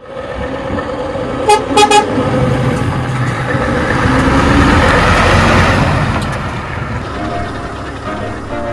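Scania crane truck sounding its horn in two short toots about a second and a half in, then its engine and road noise swelling louder and fading away as it goes by. Music comes in near the end.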